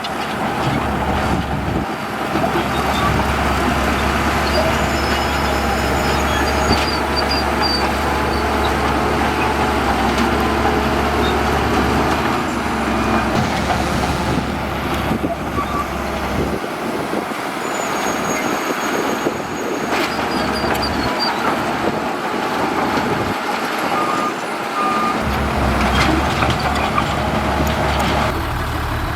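Heavy diesel earthmoving machinery running steadily, with a few short beeps over the engine noise. The deep low rumble thins out for several seconds past the middle, then returns.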